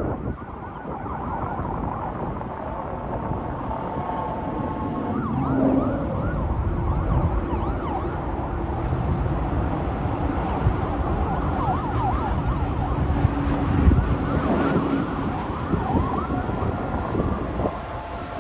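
Emergency vehicle siren sweeping rapidly up and down over steady road traffic noise.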